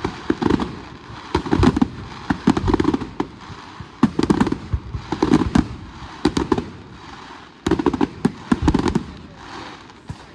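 Firework display going off in rapid clusters of bangs, deep booms mixed with sharp cracks, about once a second, with little pause between volleys.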